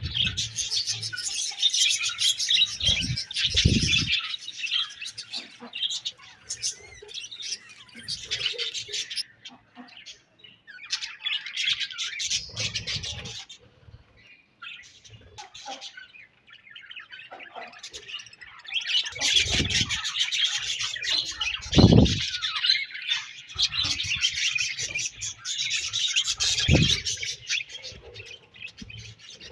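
A group of budgerigars chirping and chattering in bouts, with short quieter gaps between them. A few low thumps come in between, the loudest about two thirds of the way in.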